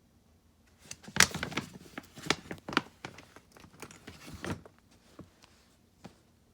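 Small plastic toy figures being handled and set down: a run of clicks and knocks lasting a few seconds, then quieter faint handling near the end.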